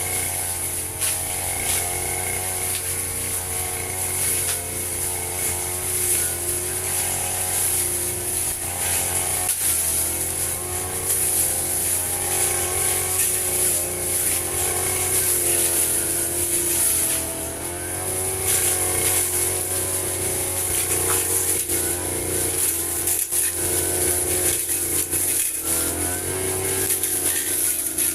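Firman FGB 528 petrol brush cutter running while cutting grass, the engine's pitch wavering slightly as it works, with a brief drop in level a little past halfway.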